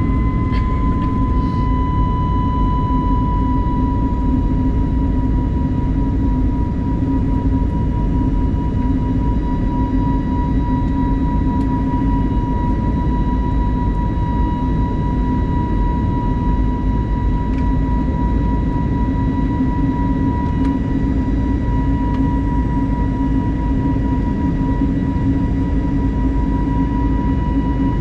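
Cabin noise of an Airbus A320neo climbing after takeoff: the steady rush and drone of its CFM LEAP-1A turbofans, with a steady high tone that dips slightly in pitch during the first few seconds.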